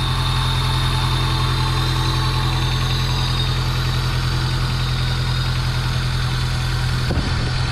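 Newly installed Honda D15B8 1.5-litre four-cylinder engine idling steadily, cold, just after its first start.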